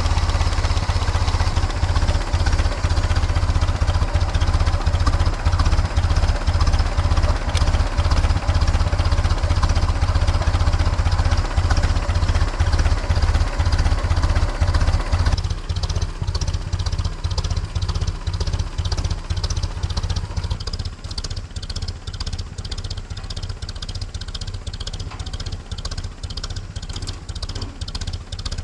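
A 1931 Ford Model A four-cylinder engine running as the car drives, heard close up with a steady, even firing beat. About halfway through it becomes quieter and more distant.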